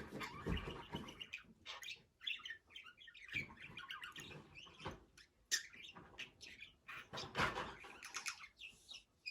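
Budgerigar chattering and warbling: a rapid, irregular run of chirps, clicks and squeaks, with louder bursts about five and a half seconds and seven and a half seconds in.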